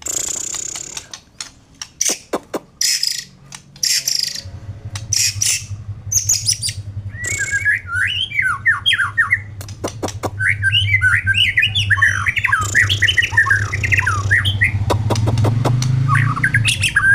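White-rumped shama singing: harsh, raspy bursts for the first several seconds, then quick runs of whistled notes sliding up and down. A low steady hum runs underneath from about four seconds in.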